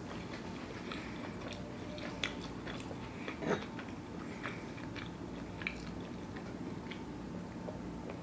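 Close-miked chewing of a mouthful of vegan sushi bake, soft and wet with many small mouth clicks, and a short closed-mouth hum about three and a half seconds in.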